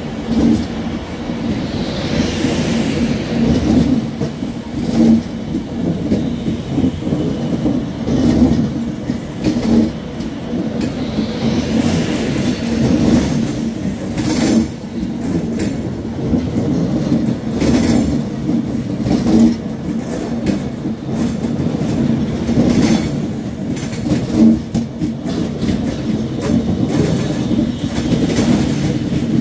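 A Class 390 Pendolino electric train rolling slowly along the platform. A steady electric hum runs under wheels clacking over the rail joints, with occasional brief high wheel squeals.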